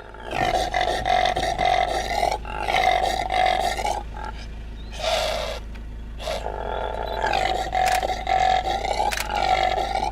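Impala calling: a run of loud, harsh calls, each one to two seconds long, with a short hissing snort about five seconds in.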